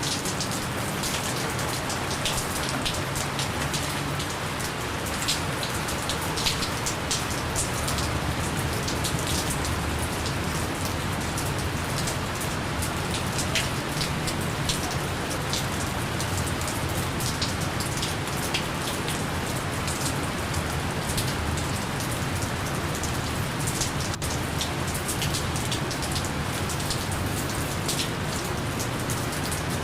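Gentle, steady rain falling, with many individual drops pattering close by over an even hiss of rainfall.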